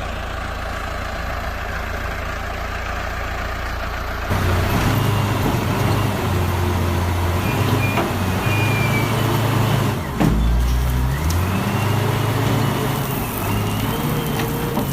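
Heavy machinery engine running steadily. About four seconds in it grows louder and goes into a low drone that shifts up and down in pitch, as under changing load, with faint higher whining tones over it.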